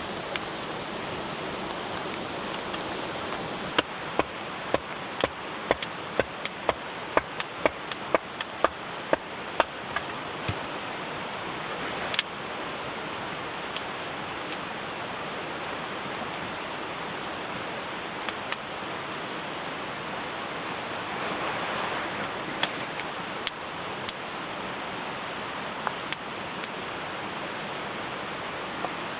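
Steady rush of a nearby river, with a freshly lit wood campfire crackling and popping at irregular moments, most busily early on and more sparsely later.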